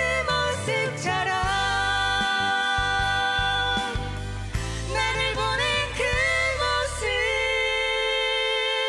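A woman's voice singing long, drawn-out ballad notes that waver and bend over a band's backing, ending on one long held note as the band drops away near the end.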